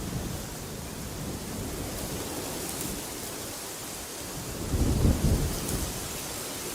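Wind blowing steadily, with a strong gust about five seconds in that swells into a loud low rumble and then eases.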